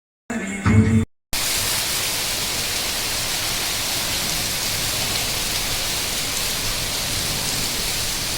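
Heavy rain falling as a steady, even hiss. Before it, a brief cut-off snippet of some other pitched sound lasts under a second, about half a second in.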